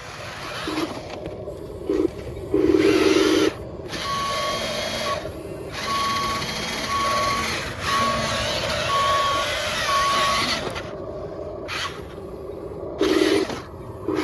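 Sound module of an RC heavy-duty truck playing a reversing warning that beeps about once a second over a running engine sound, with short loud low horn-like blasts before and after the beeping.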